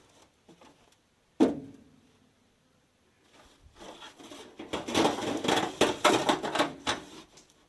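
A single sharp metal clank about a second and a half in, then several seconds of quick clinking and rattling as a roller chain for a round baler is handled and its links knock together.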